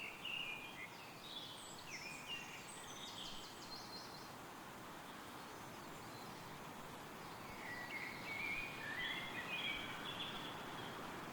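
Wind rustling through trees, with songbirds singing quick, chirpy phrases: a run of song in the first few seconds and another from about seven and a half seconds in.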